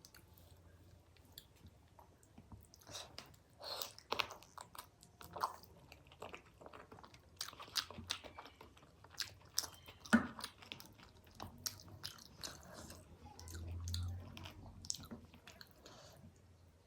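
Close-miked eating: a person biting and chewing food, with short crunchy bites scattered irregularly, the loudest about ten seconds in.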